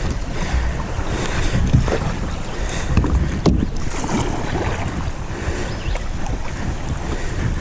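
Water splashing and rushing around a kayak on a river, with several sharp knocks, the loudest about three and a half seconds in.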